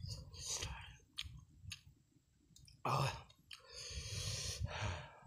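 Mouth sounds of a man eating boiled chicken: scattered chewing and lip-smacking clicks, then a louder breathy exhale in the last second and a half.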